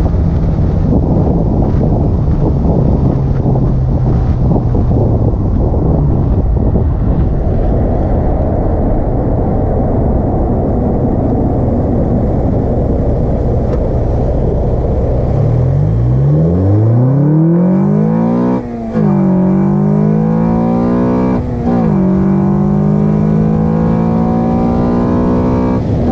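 Car engine with an Acuity cold air intake, first cruising steadily under road and wind noise, then accelerating hard about two-thirds of the way in. Its pitch climbs, drops at two quick upshifts about three seconds apart, and climbs again after each.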